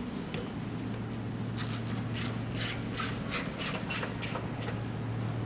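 A run of short rubbing or scraping strokes, about three a second, over a steady low hum.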